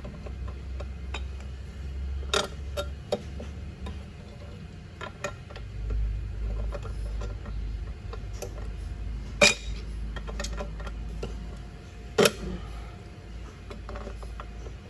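Scattered metallic clinks and knocks of hand tools and parts being handled on car suspension parts, two louder knocks about nine and twelve seconds in, over a steady low rumble.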